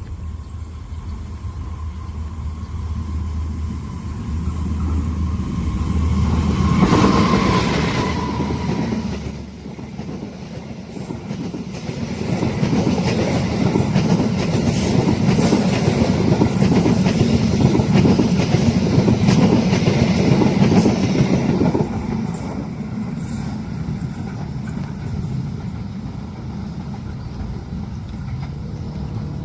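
A diesel-hauled train passing: the locomotive's low engine hum builds and peaks loudly about seven seconds in with a brief high tone, then a long rake of coaches rumbles past with clickety-clack of wheels over the rail joints, easing off after about twenty-two seconds.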